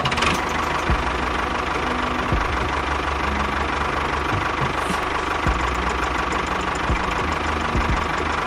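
Small motor running steadily with a constant whine and a few light knocks; it starts abruptly.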